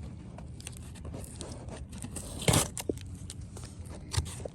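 Cardboard box with new tail lights being opened by hand: a run of small crackles, clicks and rustles of cardboard and packaging, with one louder tear or knock about halfway through, over a low steady rumble.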